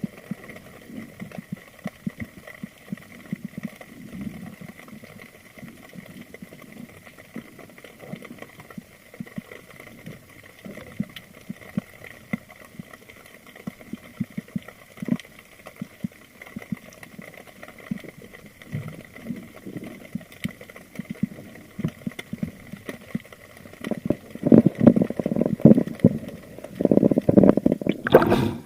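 Underwater sound picked up by a diver's camera: a steady crackle of small scattered clicks, then louder sloshing and bubbling of water for the last few seconds.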